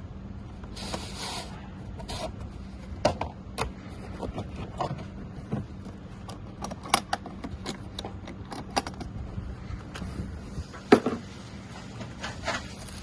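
Irregular clicks, knocks and short scrapes of handling, loudest about eleven seconds in, with a faint steady hum underneath and no motor running.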